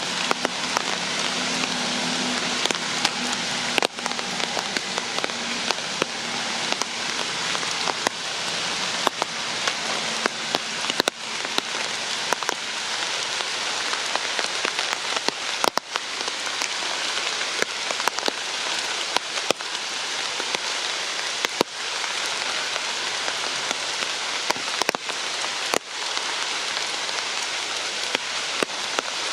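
Steady rain falling on surfaces, an even hiss, with louder single drops striking close by every few seconds.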